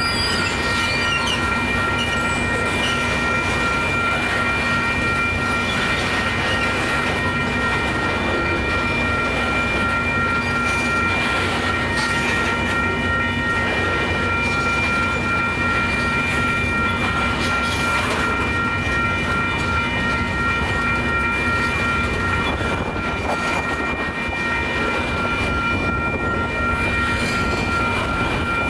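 Tank cars of an oil train rolling through a grade crossing: a steady rumble and clatter of wheels on the rails, with steady high-pitched tones held over it.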